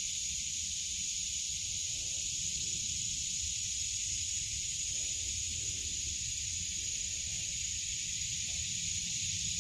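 A steady chorus of summer insects: an even, high-pitched hiss with one strong steady pitch in it, over a low rumble.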